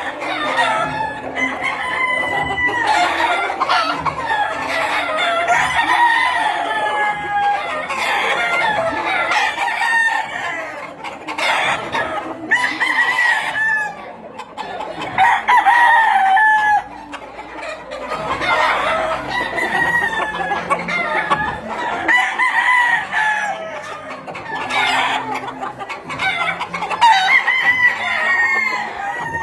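Many gamecock roosters crowing over one another, one crow after another with no break.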